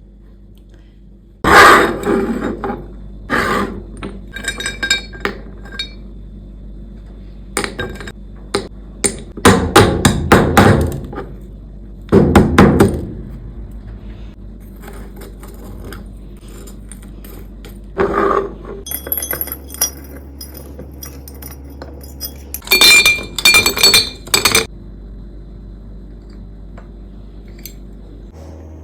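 Drink-making sounds with glassware: a series of knocks, thunks and glass clinks in separate clusters, some clinks ringing briefly.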